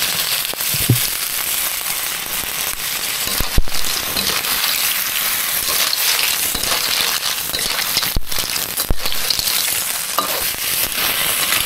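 Undulated surf clams stir-frying in hot lard with garlic: a steady sizzle with crackling, broken by a few sharp knocks in the pan, the loudest about three and a half seconds in.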